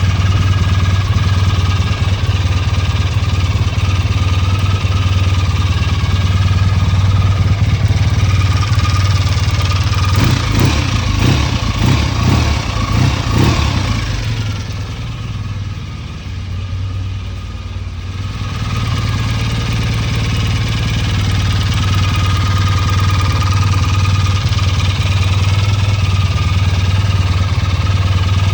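1966 BSA A65L's 650 cc parallel-twin engine running steadily at idle, revved in a few quick blips about ten seconds in, then dropping lower for a few seconds before settling back into a steady idle. It runs cleanly, its misfire traced to a weak, flat battery.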